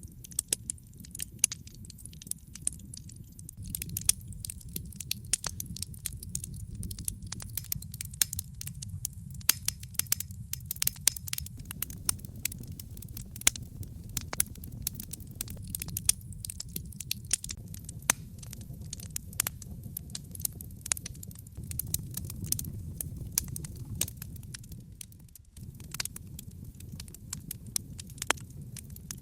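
Wood fire in a fireplace crackling, with frequent sharp pops and snaps from the burning logs over a low steady rumble of the flames.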